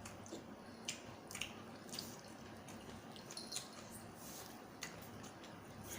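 Wet mouth sounds of someone eating spicy seafood salad: scattered short smacks and squelches of chewing, a few seconds apart.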